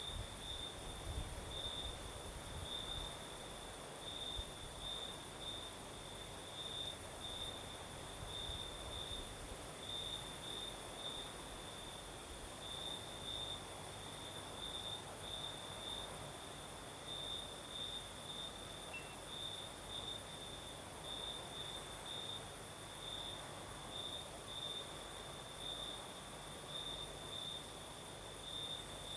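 Crickets chirping at night: a steady, high-pitched pulsing trill of quick repeated chirps, with a faint even hiss underneath.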